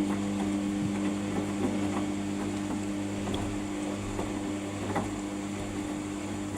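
Samsung washing machine's drum motor running at a steady speed, a constant even hum with a few faint ticks, the load running balanced.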